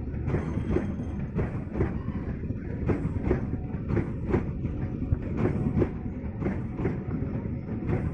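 Cement freight train rolling past, its wagon wheels clicking over rail joints in a steady rhythm of paired clicks about once a second, over a low rumble.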